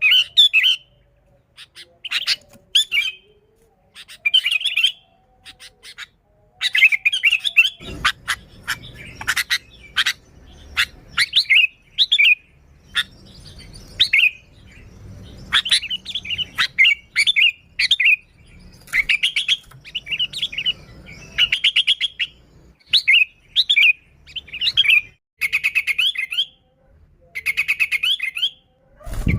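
Sooty-headed bulbul calling in short, repeated chirpy phrases with brief pauses between them. The phrases come thicker and faster after about eight seconds.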